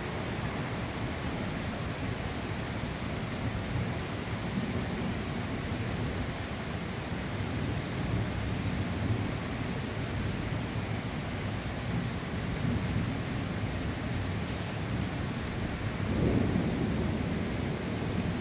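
Steady rain with low rumbling thunder; the rumble swells louder near the end.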